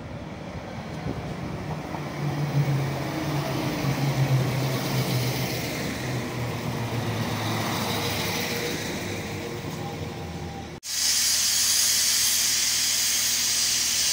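A Transport for Wales Class 197 diesel multiple unit pulls into the platform: a low engine hum and rolling wheel noise swell as it comes alongside, then ease off. After a sudden cut about eleven seconds in, a steady loud hiss runs for about three seconds and stops abruptly.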